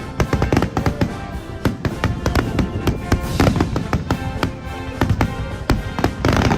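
Fireworks going off in a rapid, dense series of bangs and crackles, several a second, with music playing.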